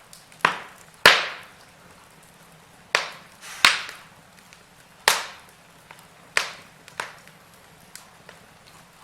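Logs burning in a fireplace, with about seven loud, sharp pops and snaps at irregular intervals, each dying away quickly, over a faint steady crackle.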